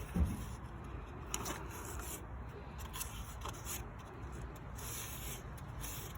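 Light rubbing and scraping of hands cleaning a dirty ride-on mower air filter and intake, with a dull thump just after the start and faint scattered clicks.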